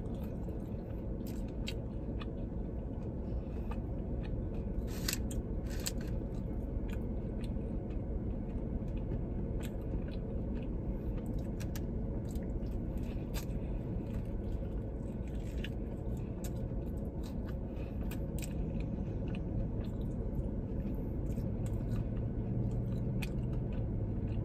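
Close-up chewing and biting on bone-in chicken wings: wet mouth sounds with frequent short, sharp clicks and crunches, over a steady low hum.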